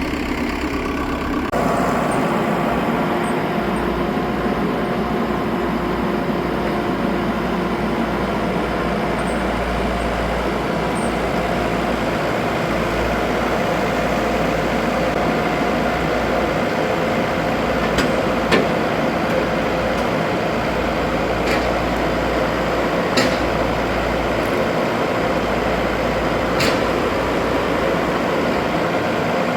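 Heavy diesel engine running steadily, with a few short sharp clicks about two-thirds of the way through.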